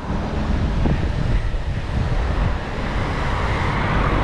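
Wind buffeting the action camera's microphone: a steady rushing rumble, with road traffic beneath it.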